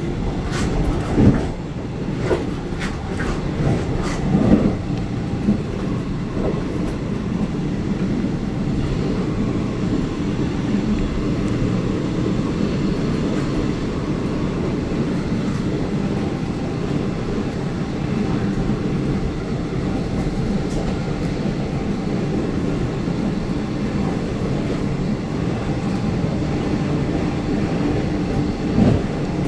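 Train running along the track with a steady low rumble. Sharp clacks from the wheels come in a cluster over the first few seconds and again near the end.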